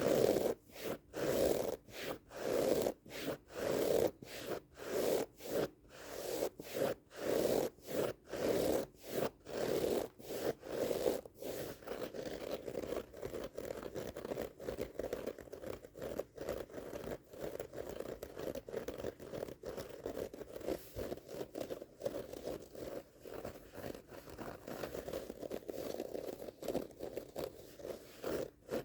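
A rug's pile being scratched in slow, even strokes, roughly one or two a second. About twelve seconds in, the strokes turn faster, lighter and closer together, giving a continuous rasping.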